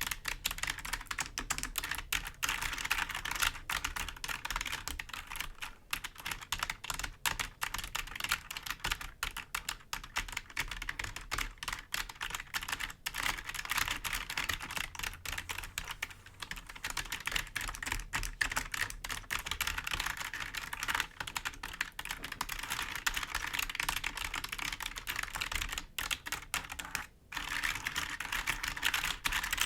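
Fingers tapping and scratching on the keys of a clicky computer keyboard: a dense, continuous run of quick clicks, with a brief pause near the end.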